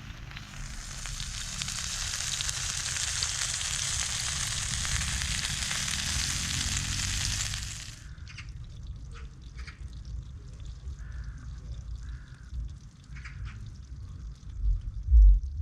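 Food frying in hot oil, a steady loud sizzle that cuts off abruptly about halfway through. After it come quieter scattered clicks and light knocks, with a low rumble near the end.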